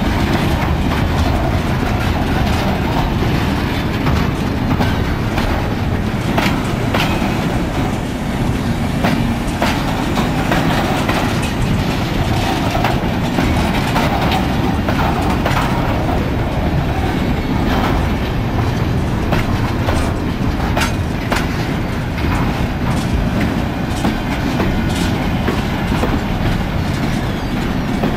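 Freight train wagons, container flatcars and open wagons, rolling past close by: a steady loud rumble of steel wheels on the rails, with scattered sharp clicks and clatter.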